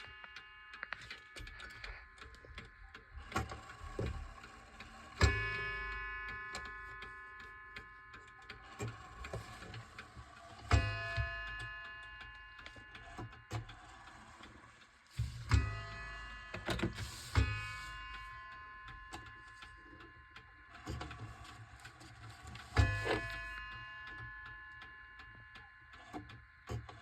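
Seth Thomas beehive mantel clock striking about five times, each blow ringing out and fading slowly over a few seconds. Its movement ticks softly between the strokes.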